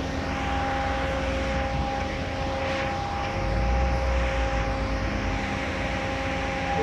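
Automatic car wash equipment running: a steady fan-like drone with a constant whine over hiss, and a low rumble that swells briefly a little past the middle.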